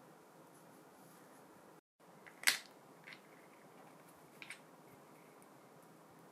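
A sharp click, then a fainter click and a quick double click a little later: small hard parts or tools knocking together during the drill restoration work, against a low steady hiss.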